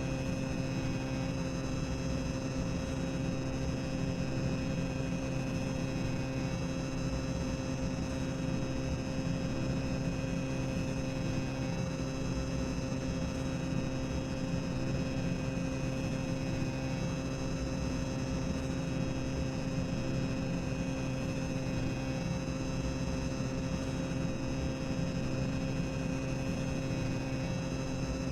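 Boiler room ambience sound effect: a continuous low rumble and machinery hum with several steady tones, unchanging throughout.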